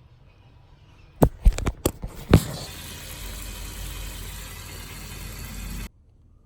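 A few sharp knocks in quick succession, then a steady hiss of falling water that cuts off suddenly near the end.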